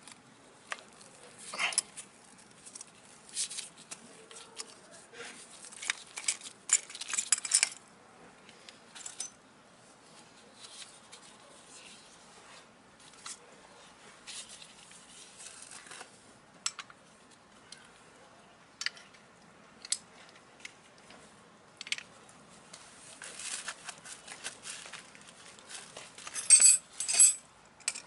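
Small metal parts and hand tools clinking, scraping and rattling in irregular short bursts of handling, busiest in the first several seconds and again near the end.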